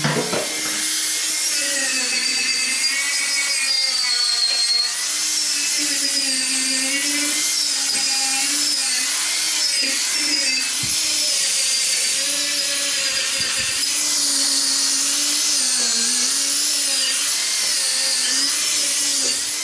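Stick-welding arc from an inverter arc welder burning a 6011 rod on thin, rusty, painted steel: a continuous hiss with a hum that wavers in pitch. The arc stops near the end.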